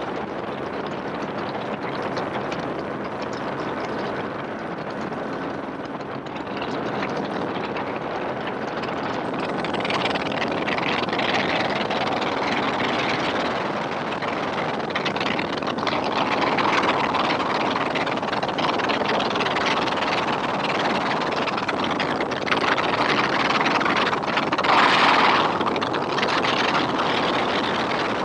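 Helicopter in flight: steady rotor and engine noise that swells louder several times.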